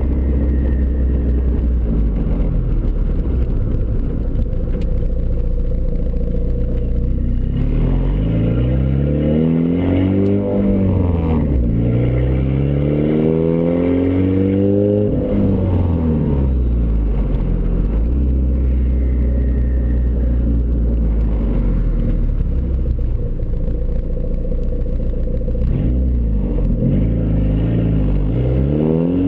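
Turbocharged Ford Escort ZX2's four-cylinder engine through a custom 3-inch side-exit exhaust, running steadily at low revs. In the middle it revs up twice, the pitch climbing and then dropping back; the second drop is sudden. Another rev starts to climb near the end.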